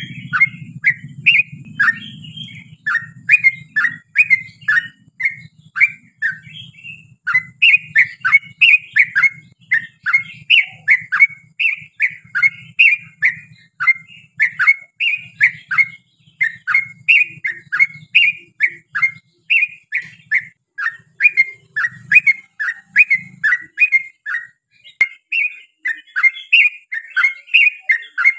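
Yellow-vented bulbul (trucukan) singing a long unbroken run of short, bubbly notes, about three a second, in the fast continuous 'ropel' style. A faint low hum lies underneath and fades out near the end.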